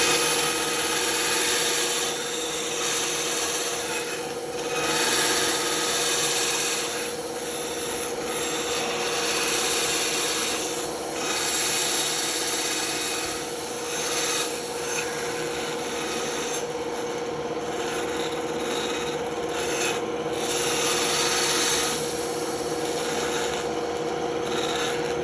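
Band saw running with a steady hum while its blade cuts through wood. The cutting noise swells and eases as the piece is fed into the blade.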